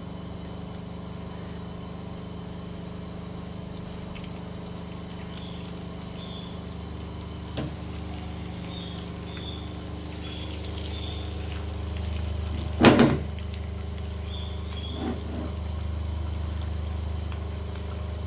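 Marinated chicken breasts sizzling faintly as they are laid one by one onto an oiled grill pan over a flame turned up high, over a steady low hum that grows louder about 7 seconds in. One loud knock about 13 seconds in, with a couple of lighter knocks around it.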